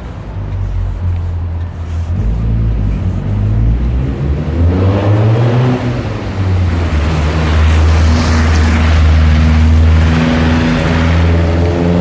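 Car engine running while driving, with a low steady hum and the engine note rising about four to six seconds in. A rushing road and wind noise grows louder from about five seconds in.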